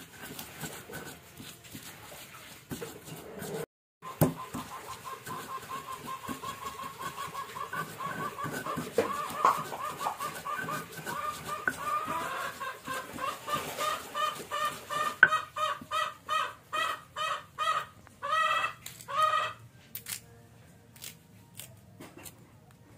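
Chicken clucking: a long run of short repeated calls that grows louder toward the end and stops about twenty seconds in.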